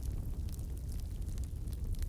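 Wood fire burning in a fireplace: a low steady rumble of the flames with scattered small crackles and pops.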